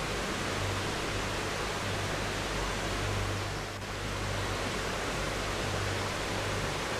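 River water rushing steadily, an even full hiss with a brief slight dip a little before halfway.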